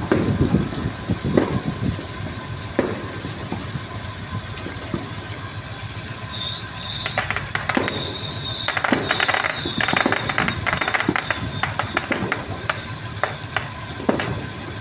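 A squid fishing boat's engine running steadily, with scattered knocks and rattles over it.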